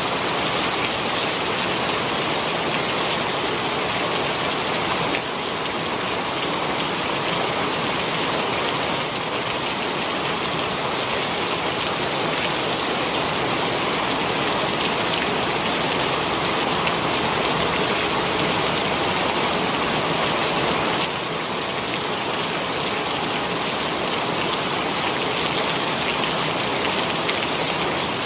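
Heavy rain pouring steadily, a dense even hiss of drops, dipping slightly in level a little over five seconds in and again about twenty-one seconds in.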